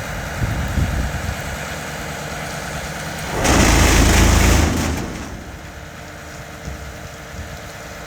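Scania R520's V8 diesel engine idling. About halfway through there is a loud rush of noise lasting about a second and a half, and the engine sounds quieter after it.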